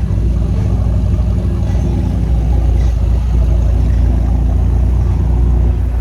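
BMW M5 CS's 4.4-litre twin-turbo V8 idling steadily with a deep, even exhaust note.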